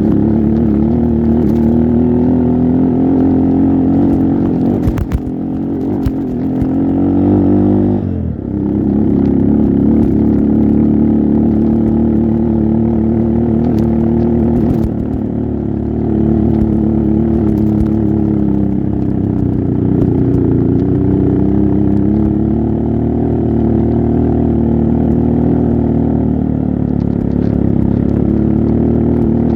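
Trail motorcycle engine running under load on a rough climb, its revs rising and falling with the throttle. It revs up for a few seconds and drops sharply about eight seconds in, then runs on with smaller swells in pitch.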